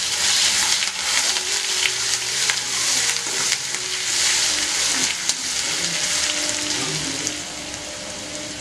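Chopped garlic and ginger sizzling in hot mustard oil in an aluminium kadai, with a metal spatula scraping and stirring against the pan. The sizzle eases somewhat near the end.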